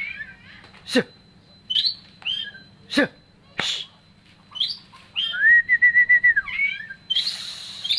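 Oriental magpie-robin (kacer) singing in full voice: a varied string of clear whistled notes and sharp down-slurred chirps, a fast run of repeated whistles about five seconds in, and a harsh scratchy note near the end.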